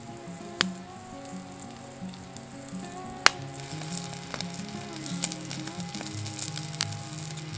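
Food frying and sizzling in a pan over a wood fire, with two sharp clicks, under soft background music.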